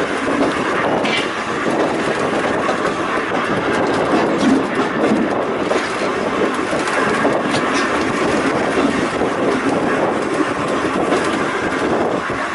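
A Volk's Electric Railway car running steadily along its narrow-gauge track, a continuous rumble with a few clicks from the wheels over the rail joints.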